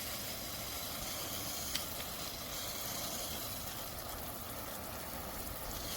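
Water spraying steadily from the shower head of a Dramm One Touch rain wand, a continuous hiss of fine spray.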